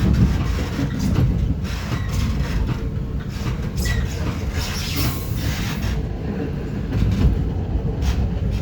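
Metra bi-level commuter cab car running on the track, heard from inside the cab: a steady low rumble with repeated clicks of wheels over rail joints, and a brief rise in hiss about five seconds in.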